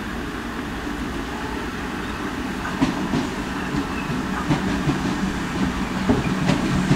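British Rail Class 314 electric multiple unit approaching, a steady rumble that slowly grows louder, with a run of sharp wheel clicks on the track from about three seconds in.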